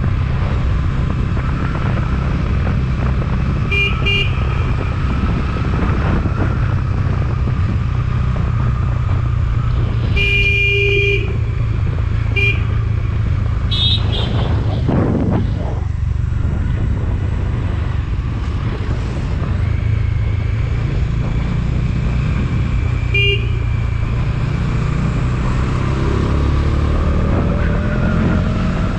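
Motorcycle running steadily on the road, with wind and road rumble. A horn beeps several times: briefly at about four seconds, longer around ten seconds, then short toots soon after and again near the end.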